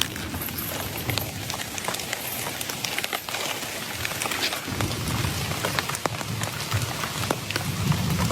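Heavy rain falling steadily, with many sharp drops striking close by. A low rumble swells about five seconds in and again near the end.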